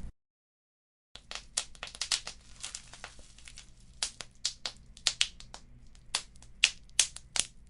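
Wood fire crackling in a fireplace: irregular sharp pops and snaps over a faint low rumble. The sound cuts out completely for about a second just after the start, then the crackling resumes.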